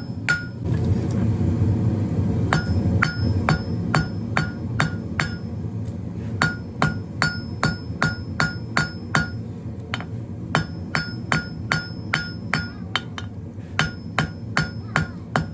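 Hand hammer striking 3/8 in round steel stock on an anvil, with the anvil ringing at each blow. The blows fall in a steady rhythm of about three a second, in runs broken by short pauses, over a steady low rumble.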